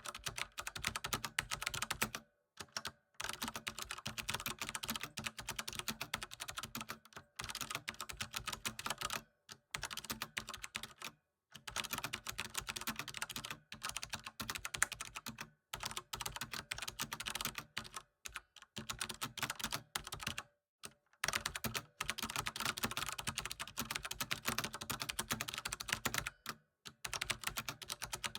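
Fast, continuous typing on a computer keyboard: rapid key clicks in runs of a few seconds, broken by brief pauses every couple of seconds.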